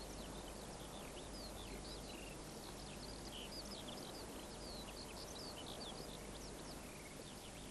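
Faint birdsong: many short, quick chirps and twitters from small birds, scattered throughout over a steady background hiss.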